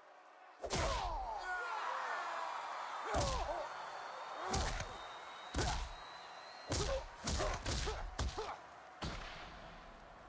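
Cartoon fight sound effects: a series of heavy punch and body-hit thuds, about nine over the span, some single and some in quick pairs. A background din of many shouting voices, like a crowd, runs under them.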